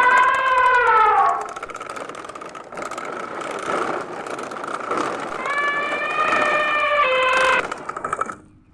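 Electronic siren-like wail, gliding down in pitch, then a rushing noise, then a second wailing tone about two-thirds of the way through.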